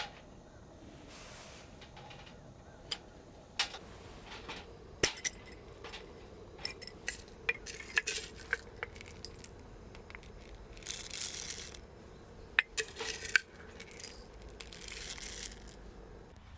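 Irregular small clinks and knocks of metal and glass, like camp cookware and utensils being handled, with two brief rustling bursts near the middle and toward the end.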